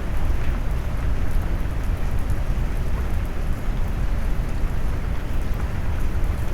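Steady rain noise filtered low and deep, like brown noise: a dense, even rumble of rain with faint scattered drop ticks above it.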